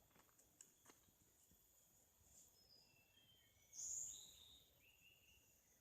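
A wild sulingan bird singing a short, faint phrase of clear whistled notes at several pitches. The loudest is a high note about four seconds in, followed by lower notes.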